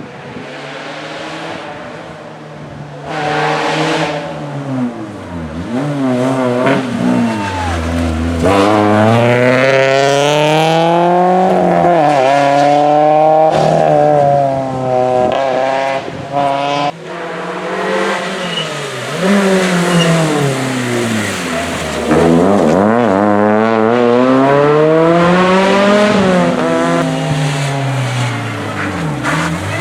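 Rally car engine at high revs, its pitch climbing and dropping again and again as it accelerates, shifts and lifts off.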